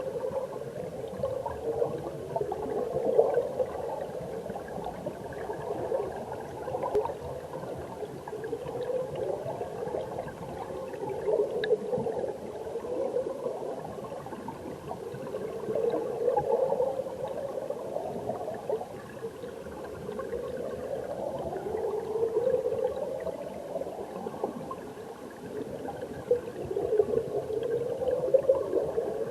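Flowing stream water heard underwater: a continuous rushing gurgle, swelling every few seconds with rising, bubbling surges.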